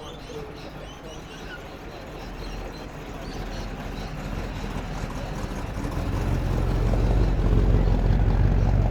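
A car driving up, its engine note low and steady, growing louder over several seconds and loudest near the end.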